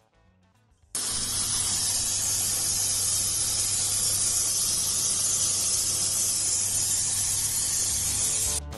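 Steady hiss of leaking water in a pipe, picked up and amplified by an electronic leak detector's probe. It is absent for about the first second, then runs at an even level, and stops just before the end.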